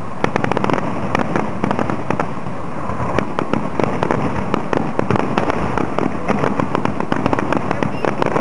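Aerial fireworks display going off: a dense, unbroken run of sharp bangs, several a second, over a constant rumble of bursting shells.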